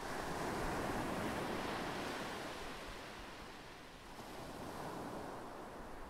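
Ocean surf: a wave breaking and washing in, loudest in the first two seconds and then fading, with another smaller swell of surf near the end.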